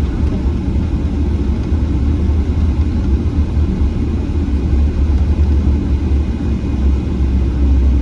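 Steady low rumble inside the cabin of a Boeing 777-300ER taxiing, its GE90 engines at idle thrust.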